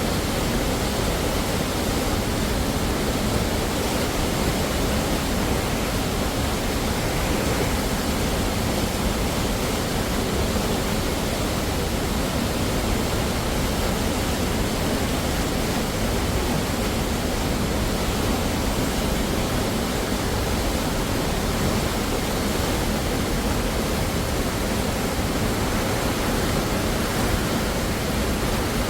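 Waterfall: a steady, continuous rush of falling water with no change.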